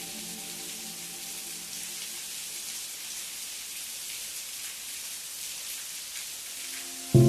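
Steady rain falling, an even hiss of many drops with no music under it for most of the stretch. Right at the end, soft sustained music chords come in suddenly and loud.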